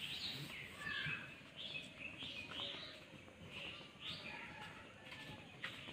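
Small birds chirping, a string of short high chirps coming one or two a second.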